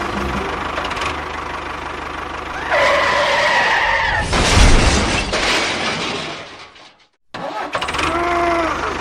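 A motor running, with a loud rushing surge in the middle. The sound cuts off abruptly about two-thirds of the way through, and a short pitched sound follows.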